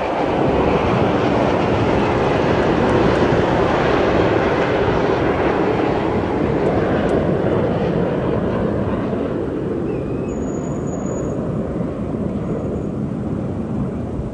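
Jet aircraft flying past, a loud rushing engine roar that builds over the first few seconds, then slowly fades away.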